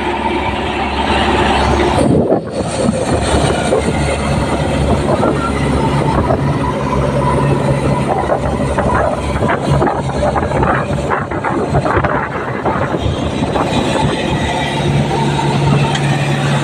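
Diesel engines of a JCB 3DX backhoe loader and a tractor running loudly. A steady low engine note at the start and end gives way in the middle to a rougher stretch full of clatter.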